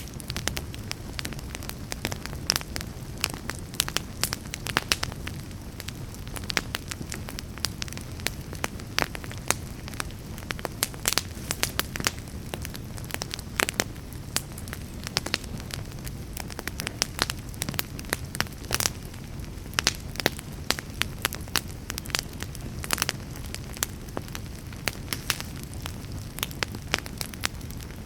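Wood fire burning in a fireplace: a steady low rush of flame under irregular crackles and sharp pops from the burning logs.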